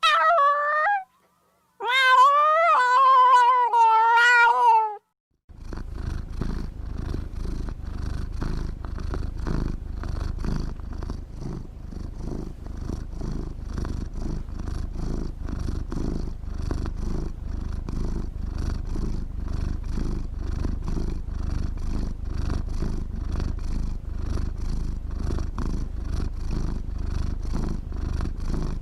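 A domestic cat meows briefly, then gives one long wavering meow of about three seconds. About five seconds in it starts purring steadily, in an even rhythmic pulse.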